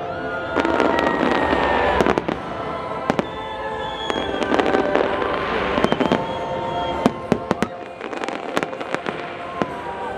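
Large aerial fireworks display: many sharp bangs and crackling bursts, coming thicker in the last few seconds, over music with long held notes.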